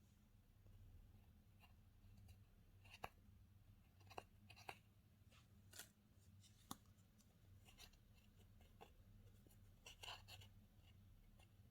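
Near silence: a faint steady low hum with scattered small clicks and ticks, about a dozen, at no even rhythm.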